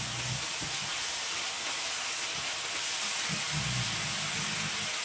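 Hoisin-marinated pork strips with onion and garlic sizzling in hot oil in a frying pan, a steady even hiss as the meat browns.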